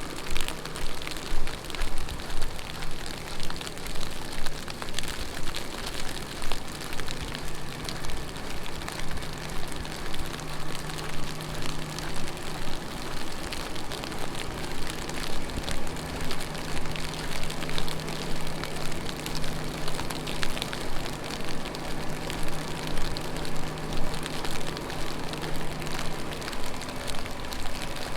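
Heavy rain pattering on the street, with footsteps splashing on wet pavement at about two steps a second. A steady low hum runs underneath and stops near the end.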